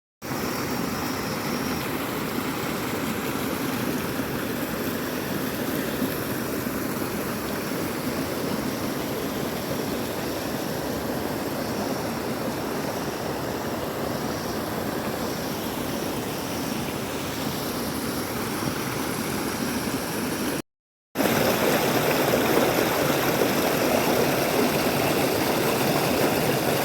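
Steady noise of water falling at a waterfall. About two-thirds of the way through it cuts out briefly and returns a little louder.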